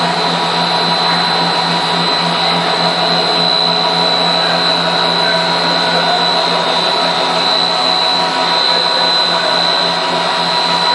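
Snack-processing line machinery running: a steady electric-motor hum with a constant high whine over a dense mechanical noise.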